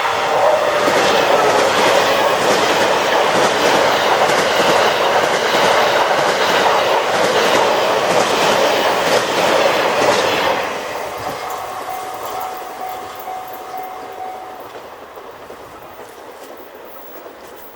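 Train Suite Shiki-shima passenger train passing close at speed, its wheels clattering rapidly over the rail joints. The clatter is loud for about ten seconds, then fades steadily as the train moves away.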